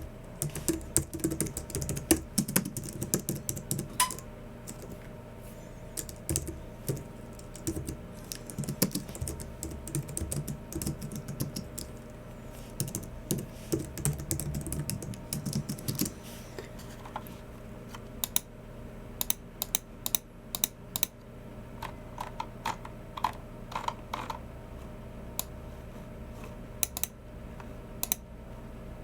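Typing on a Logicool MX Keys Mini, a low-profile scissor-switch keyboard: a fast, irregular run of keystrokes for about the first sixteen seconds. After that the clicks come sparser and separate until near the end.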